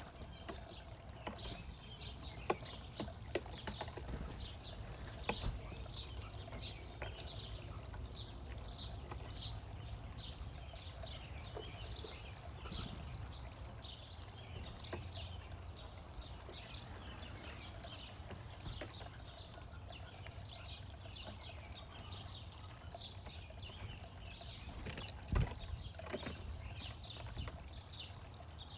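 Small backyard birds chirping over and over, short falling chirps, over a low outdoor rumble, with a single thump near the end.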